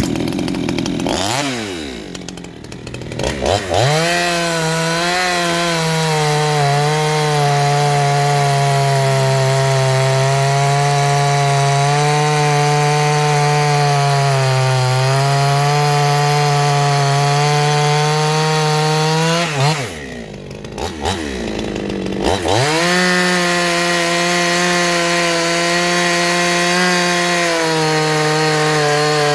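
58cc Chinese two-stroke chainsaw revving up and cutting wood at full throttle, its pitch holding high with a slight waver under load. About twenty seconds in the revs drop briefly, then the saw goes back up to speed and cuts on.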